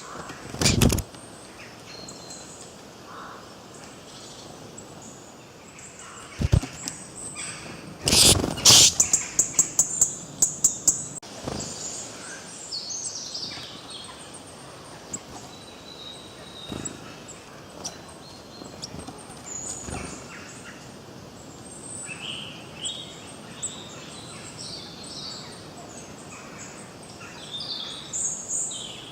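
Wild birds chirping and singing over a steady background hiss. A loud, rapid rattling series of strokes comes about 8 seconds in, with a sharp loud sound near the start.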